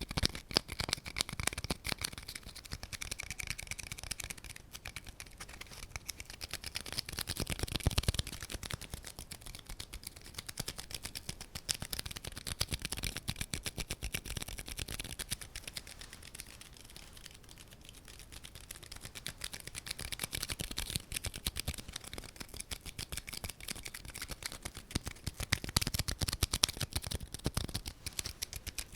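Close-miked ASMR tapping and scratching: fast, dense fingertip or fingernail taps on an object, in louder flurries about seven seconds in and again near the end.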